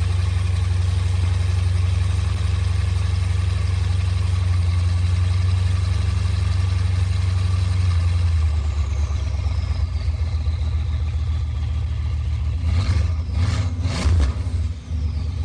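Porsche 991 Carrera S's flat-six engine idling steadily, then blipped a few times in quick succession in the last few seconds, the pitch rising and falling with each rev.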